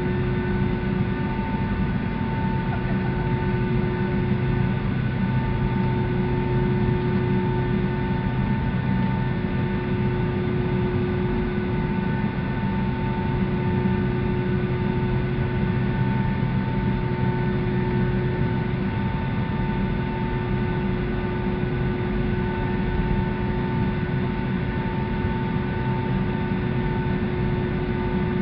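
Steady cabin noise inside a Boeing 757-200 airliner before takeoff: a low rumble with several steady whining tones from the idling engines and air systems.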